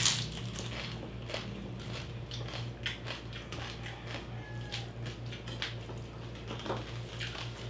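Close-up eating sounds of crispy roasted pig (lechon) skin being bitten and chewed: scattered crisp crunches and mouth clicks, the sharpest crunch right at the start, over a steady low hum.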